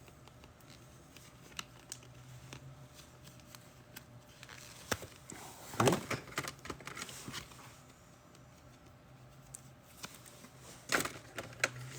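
Trading cards and plastic card holders being handled on a table: scattered light clicks and short rustles, the loudest rustle about six seconds in and a few more near the end.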